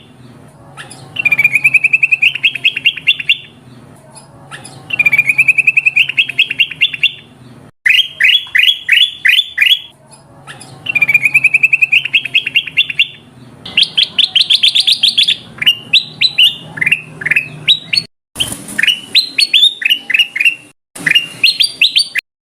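Kutilang emas bulbul song played as a bird-lure recording: phrases of fast chirped notes, repeated over and over with short pauses between them. Some phrases are runs of quick rising notes.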